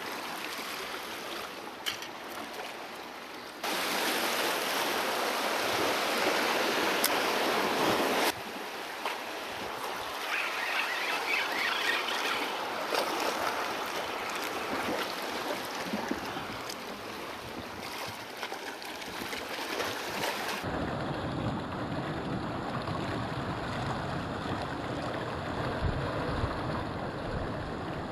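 Sea waves washing with wind noise on the microphone. The sound jumps louder about four seconds in, drops back about eight seconds in, and changes character again about two-thirds through, where it turns duller and deeper.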